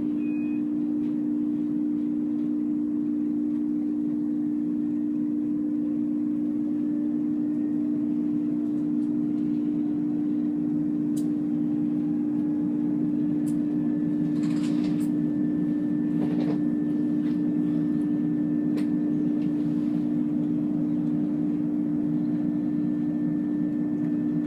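Diesel train's engine idling at a standstill, a steady low hum, with a few faint clicks and rustles midway.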